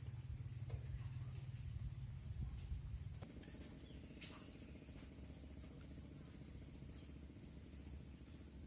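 Quiet outdoor ambience: a steady low rumble with a handful of short, high bird chirps scattered through it.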